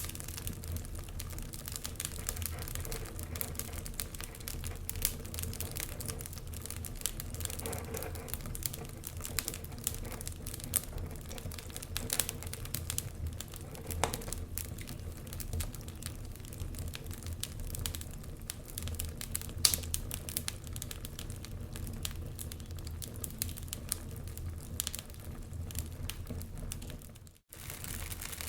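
Wood fire burning in a fireplace: logs crackling with many small sharp snaps and pops over a low steady rumble. The sound cuts out for a moment near the end.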